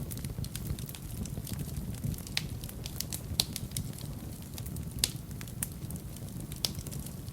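Wood fire burning in a fireplace: a steady low rumble of flames with irregular sharp crackles and pops, a few louder pops about three and a half, five and six and a half seconds in.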